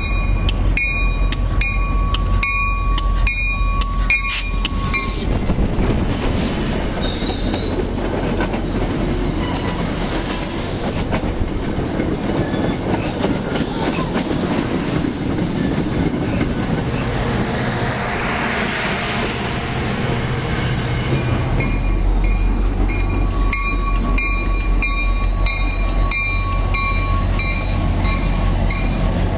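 MBTA commuter train running past close by: a steady clatter of wheels on the rails over a deep diesel locomotive rumble, which is strongest at the start and again from about two-thirds of the way through. A repeating signal tone sounds over it for the first few seconds and again near the end.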